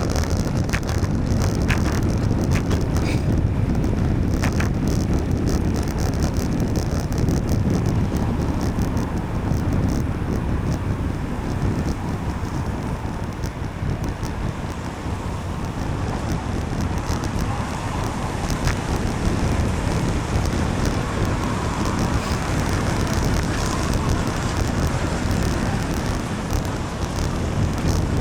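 Wind rushing over the microphone of a bicycle ride in the rain, with steady road noise from wet tyres and traffic.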